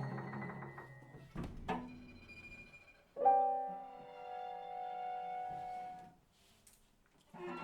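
Piano trio of piano, violin and cello playing contemporary chamber music: a run of rapid repeated notes dies away, two sharp struck accents follow, then a loud sustained chord is held for about three seconds and stopped off. After a brief silence the trio comes back in near the end.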